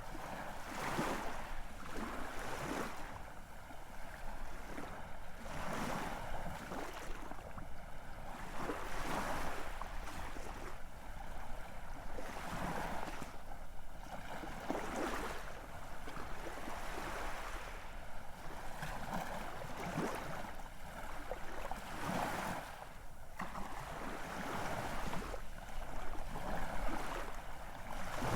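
Ocean waves breaking and washing in, surging over and over every few seconds.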